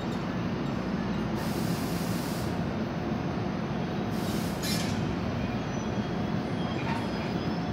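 NJ Transit double-deck commuter train moving slowly past the platform: a steady low hum and rumble, with two short hisses about one and a half seconds and four seconds in.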